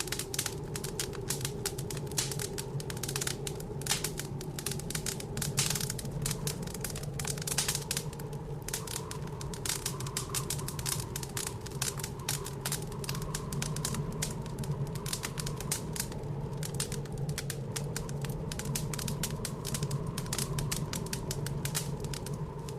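Wood fire crackling in a fireplace, a dense run of irregular small pops and snaps, over a steady low howl of blizzard wind that rises and falls slightly.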